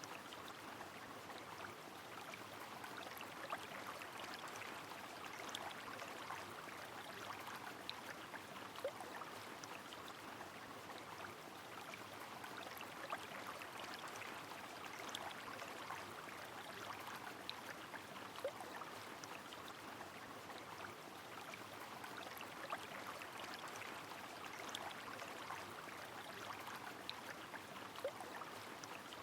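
Steady rain falling with a flowing river, a continuous watery hiss peppered with many small drop ticks. A brief faint note recurs about every ten seconds.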